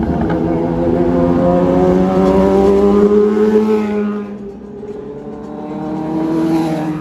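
Vehicle engine running, its pitch rising slowly over the first few seconds, then fading about halfway through and building again near the end.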